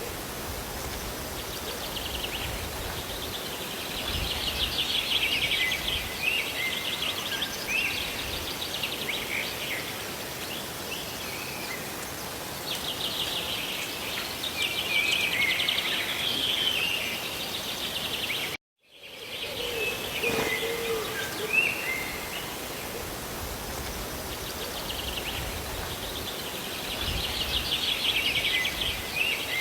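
Steady hiss of rain and falling water with small birds chirping and trilling over it, the trills coming in a few bursts. The whole sound cuts out for a split second about two-thirds of the way through, then resumes.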